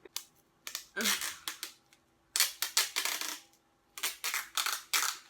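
Sellotape being pulled off the roll and torn in several short, scratchy rips.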